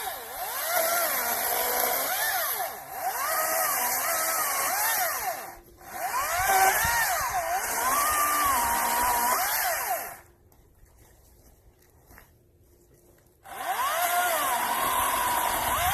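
Chainsaw cutting wood, its motor pitch rising and falling as the chain bites and frees. The sound dips briefly twice, stops for about three seconds, then runs again.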